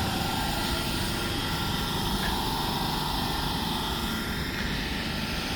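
Great Northern electric multiple-unit train running at the platform: a steady rumble and rush of noise with a faint whine held over it.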